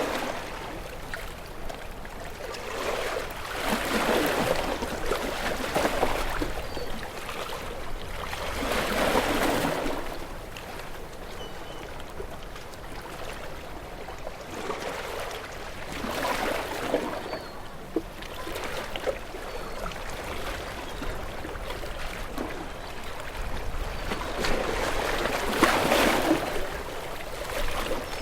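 Ocean waves breaking and washing in, a hiss of surf that rises and falls in four or five surges, each lasting a couple of seconds.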